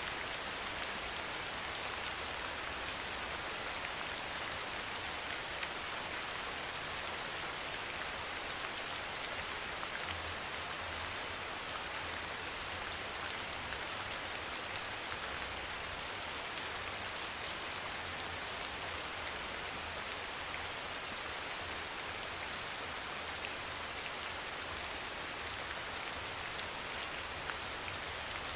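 Steady rain falling, a dense even patter of drops with occasional sharper single drop ticks.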